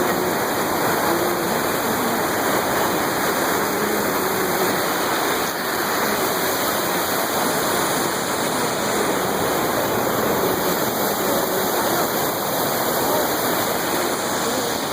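Steady rush of fast-flowing water, a mountain stream or small waterfall, with a constant even roar.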